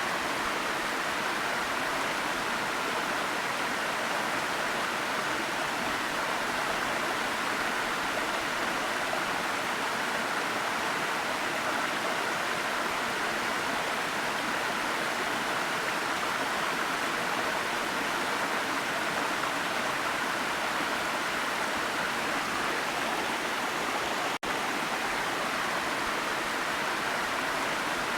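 A steady, even rushing noise, like running water or a waterfall, with no change in level apart from a momentary dropout about 24 seconds in.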